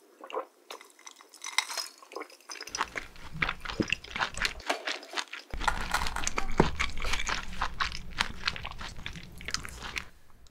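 Close-miked chewing: a person eating, with many quick crisp crunches and wet mouth clicks, busiest in the second half and stopping shortly before the end.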